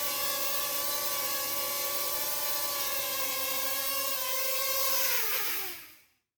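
Small quadcopter drone's propellers whining steadily in several tones; about five seconds in the pitch falls and the sound dies away as the motors spin down.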